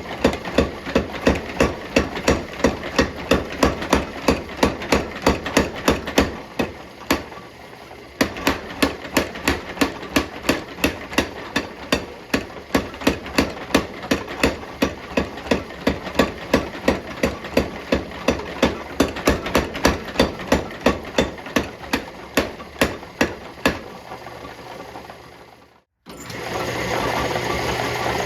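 Hammer blows forging hot steel bar, a fast even rhythm of about three strikes a second. The strikes pause for about two seconds roughly six seconds in, resume, then fade and stop. After a brief break near the end, a steady rushing noise takes over.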